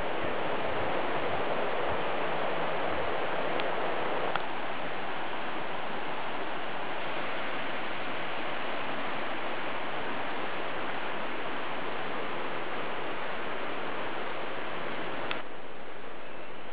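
A jungle stream rushing beside the trail: a steady hiss of running water. Its character shifts abruptly about four seconds in and again near the end.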